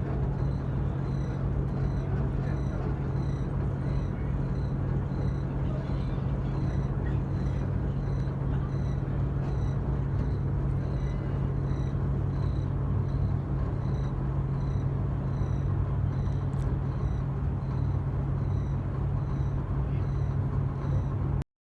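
Yakatabune pleasure boat's engine running steadily, an even low hum with a constant drone, which stops abruptly near the end.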